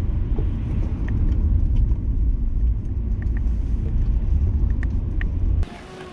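Low, steady rumble of a car being driven. It cuts off abruptly a little before the end, leaving a much quieter background.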